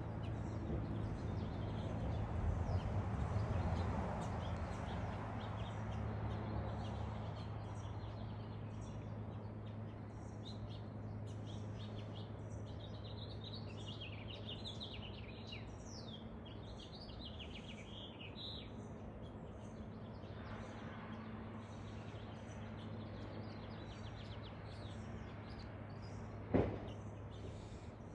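Several birds chirping and singing, densest through the middle, over a steady low hum and a rushing background noise that swells in the first few seconds. A single sharp knock sounds near the end.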